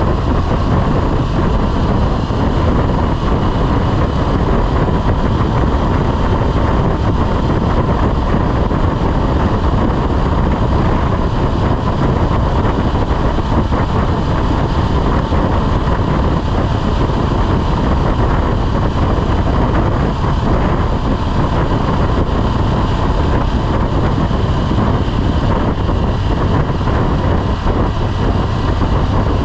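Motorcycle running at a steady speed, its engine under a loud, continuous rush of wind on the microphone.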